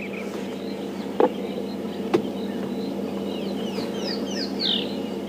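Wild birds chirping with short, quick, falling notes over a steady low hum, with two sharp knocks about a second apart near the start.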